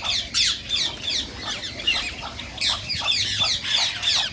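Indian ringneck parakeets calling: a rapid, continuous series of short, high-pitched calls, each sweeping downward in pitch, several a second.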